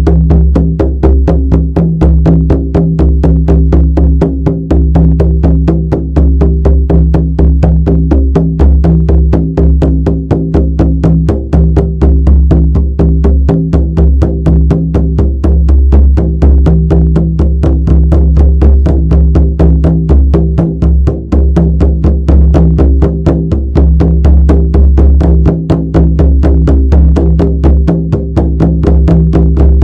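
Shamanic drum beaten in a rapid, even, unbroken rhythm, each stroke booming deep and low.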